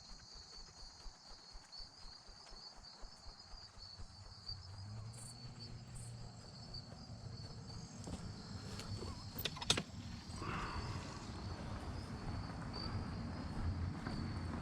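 Steady, high-pitched chorus of evening insects, crickets chirping without a break. A couple of sharp clicks come about ten seconds in, over a low rumble that grows louder in the second half.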